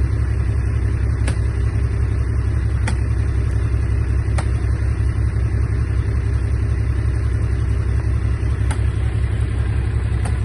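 Komatsu D31A bulldozer's diesel engine running steadily with a low rumble, with about five sharp clicks spread through it, roughly one every second and a half.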